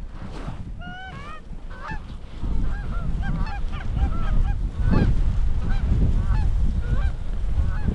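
A flock of geese honking and cackling in many short, overlapping calls, over heavy wind buffeting the microphone that gets louder about two and a half seconds in.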